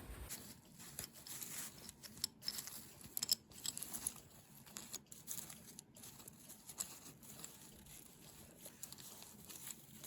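Faint rustling and small scratchy clicks of hand sewing: thread drawn through fabric and the fabric handled.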